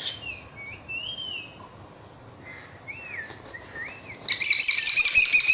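A bird calling: a few soft whistled notes gliding up and down, then about four seconds in a much louder, harsher drawn-out call.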